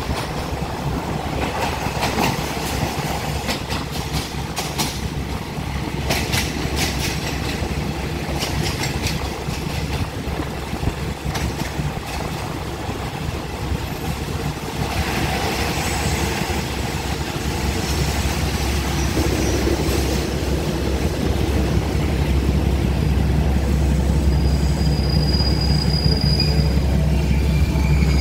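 Passenger train rolling slowly along the platform as it comes in to stop, its wheels clicking over the rail joints in the first several seconds. The clicking then dies away and a steady low hum grows louder near the end, with a brief high squeal shortly before the end.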